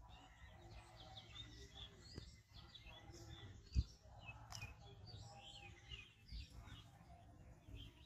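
Small birds chirping and calling throughout, in many short high notes. A single low thump sounds about four seconds in.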